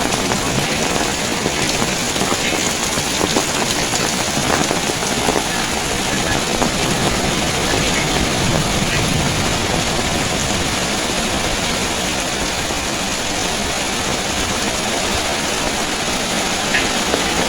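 Heavy rain pouring steadily, with strong wind rumbling on the microphone.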